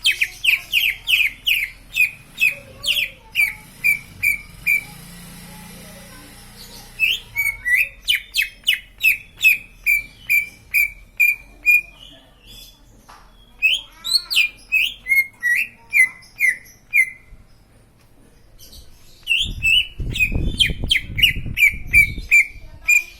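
Cucak ijo (green leafbird) calling: long runs of sharp, repeated chirps, about three a second, broken by short pauses. A low rumbling noise comes in near the end.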